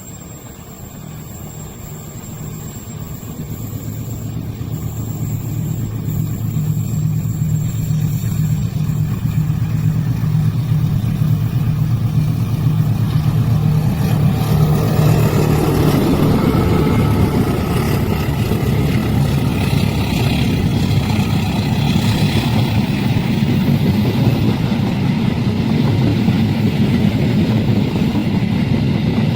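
Diesel train approaching, its locomotive engine drone growing steadily louder, then passing close by from about halfway through with a continuous rumble and rattle of wheels on the rails.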